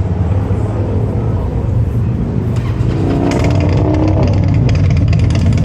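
Motorcycle engine running steadily, rising in pitch about three seconds in.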